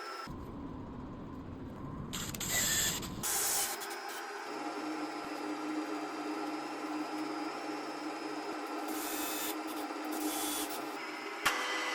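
Workshop tool noise in short pieces that change abruptly every second or few, mostly a hiss with mechanical running noise under it.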